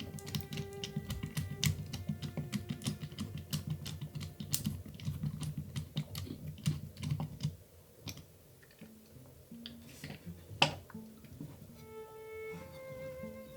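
Rapid, irregular clicking and rattling of small plastic parts over a low hum for about seven seconds, then stopping; one sharp click a few seconds later. Bowed-string background music plays throughout.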